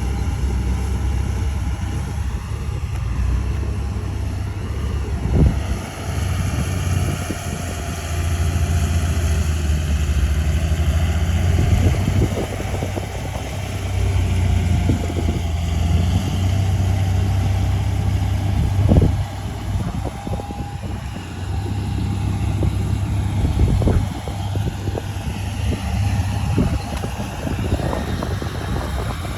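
Heavy earth-moving machine's diesel engine running steadily under load, with a few sharp knocks, about three, spread through.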